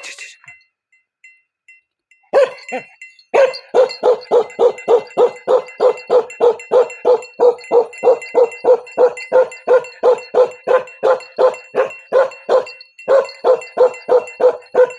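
Bakarwal dog barking in a fast, even string of about four barks a second, after a quiet couple of seconds at the start, with a brief pause about three-quarters of the way through. A faint steady high ringing tone sounds underneath.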